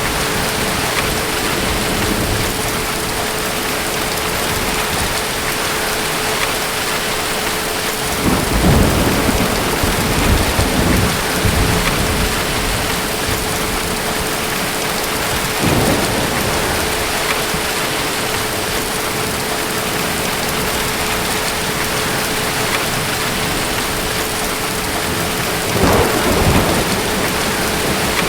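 Steady rain falling in a thunderstorm, with low rolls of thunder: a long rumble about a third of the way in, a shorter one around the middle, and another near the end.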